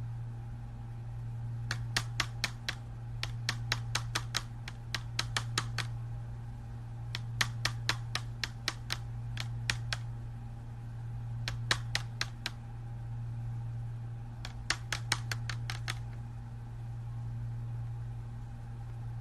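Runs of sharp, quick clicks or taps, several a second in bursts of one to two seconds, over a steady low hum.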